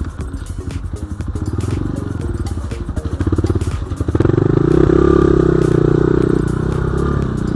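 BSE J1 enduro motorcycle engine running off-road, the throttle blipped on and off at first, then opened up about four seconds in to a louder, steadier, higher-revving run.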